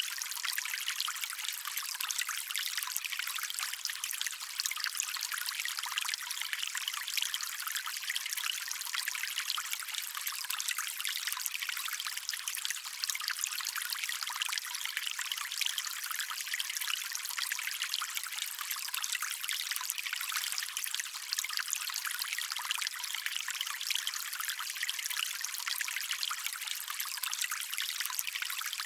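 Stream water trickling and running steadily over stones, a constant bright splashing with fine crackles and no deep rumble.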